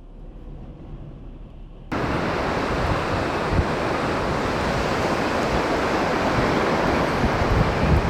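High dust-storm wind rushing and buffeting the microphone, with low gusts. It comes in abruptly about two seconds in, after a faint quiet stretch.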